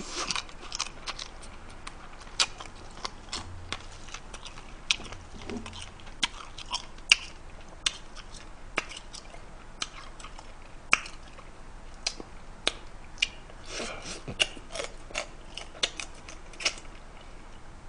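A person chewing and eating spicy blue crab with bean sprouts close to the microphone, with irregular sharp clicks and crunches scattered through the eating.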